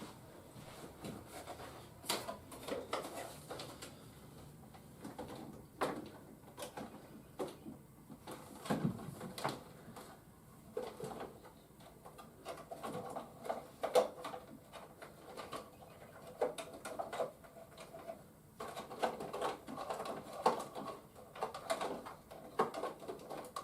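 Plastic toy vehicles and action figures being handled and set on a shelf: scattered clicks, knocks and light rattles with small plastic squeaks.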